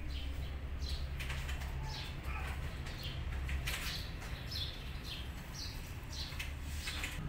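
Small birds chirping in short, high, falling notes, about two a second, over a steady low rumble.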